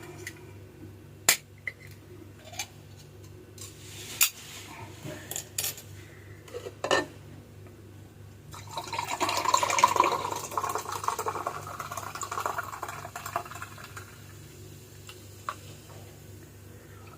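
Several sharp clinks of dishes and utensils, then liquid poured into a glass for several seconds about halfway through, the loudest sound.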